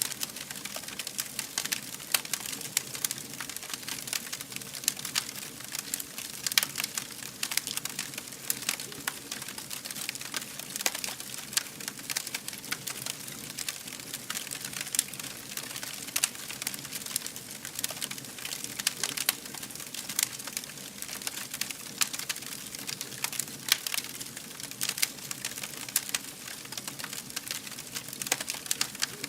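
Fire burning, with frequent irregular crackles and pops over a steady hiss.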